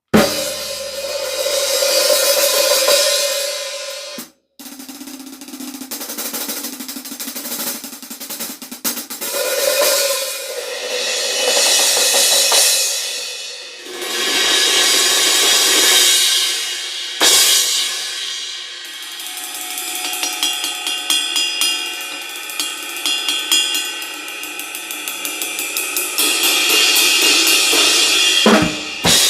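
Istanbul Mehmet IMC Bronze cymbals played on a TAMA Club-Jam drum kit: several cymbals are struck and left to ring out and decay, with some drum hits. From about two-thirds of the way in there is a quick, steady run of cymbal strokes. The sound cuts out briefly about four seconds in.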